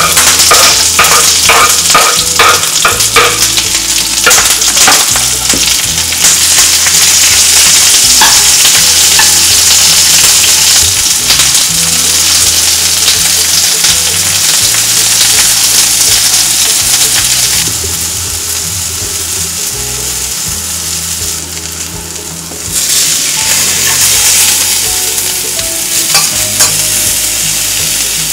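Sliced red onions with curry leaves and chilli flakes sizzling in hot oil in a non-stick frying pan, loud and steady, while a spatula stirs and scrapes against the pan. There are quick, repeated strokes in the first few seconds. The sizzle drops for a few seconds past the middle, then comes back up.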